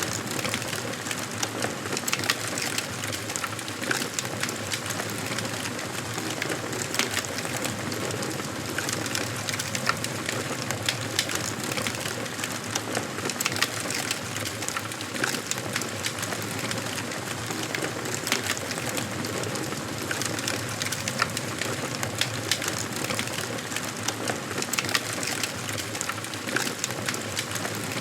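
Wood fire burning in a fireplace: a steady soft rush of flame with frequent irregular crackles and sharp pops of the burning logs.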